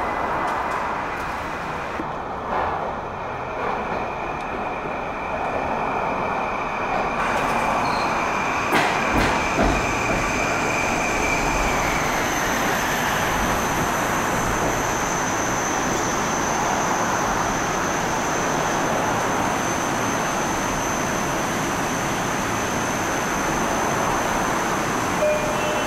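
Long Island Rail Road M-9 electric multiple-unit train pulling in and stopping, with steady rumble and a high whine that dies away about twelve seconds in as the train comes to rest. There are a few knocks from the wheels around nine seconds in. A steady high-pitched tone carries on while the train stands.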